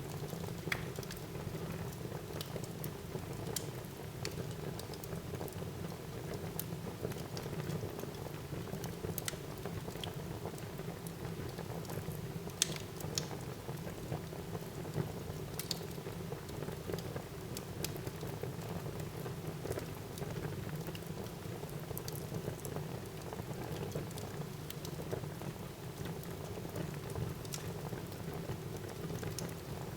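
Wood fire burning in a fireplace: a steady low rumble and hiss of the flames, broken by irregular sharp crackles and pops of the burning wood.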